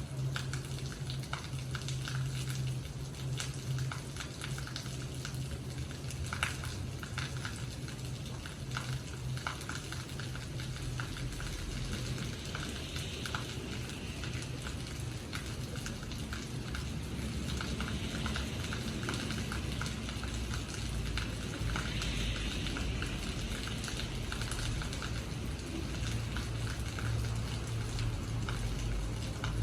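Rain falling and pattering on a hard surface, with many separate drop hits, over a low steady hum.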